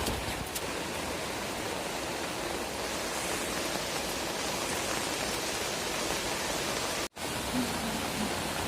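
Heavy rain falling, a steady hiss of rainfall that breaks off for an instant about seven seconds in.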